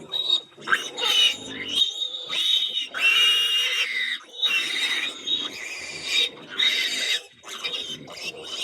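A group of farm animals making a racket: overlapping, high-pitched cries, one after another.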